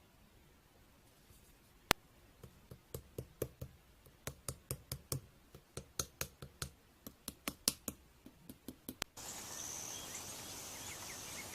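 An irregular run of sharp clicks or taps, a few a second. About nine seconds in, a steady bed of insect chirping sets in, with a high shrill band that is typical of crickets.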